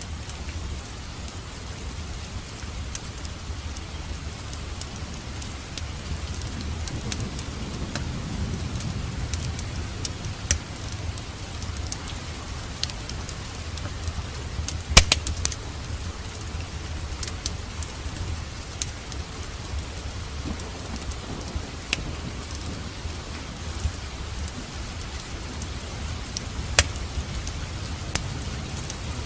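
Steady rain with a low rumble, broken by scattered sharp crackles and pops from a wood fire, the loudest about halfway through. A low roll of thunder swells and fades about a quarter of the way in.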